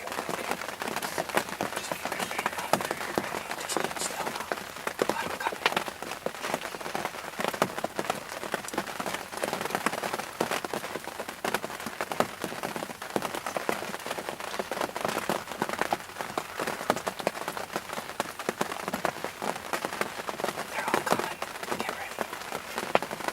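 Steady patter of rain falling on a surface, many small drops ticking without a break.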